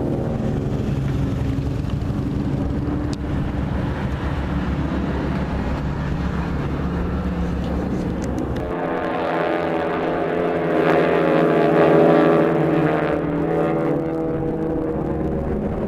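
Propeller airplane engine running in flight, a steady multi-tone engine sound. About nine seconds in it shifts abruptly higher, then swells loudest a couple of seconds later before easing back.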